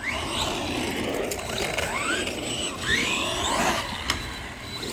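Electric 3S RC truck's motor whining up in pitch in a series of short throttle bursts, with gear and drivetrain chatter underneath. A sharp click about four seconds in.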